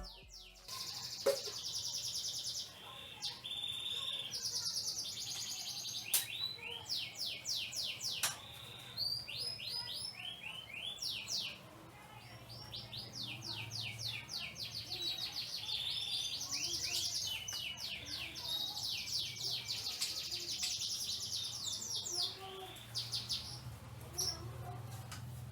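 Canaries chirping and singing in rapid trills and repeated twitters, with a brief lull about halfway through, and a few sharp clicks among them.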